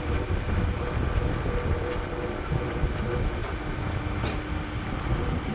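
Steady low mechanical rumble with a faint steady hum, with one short click about four seconds in.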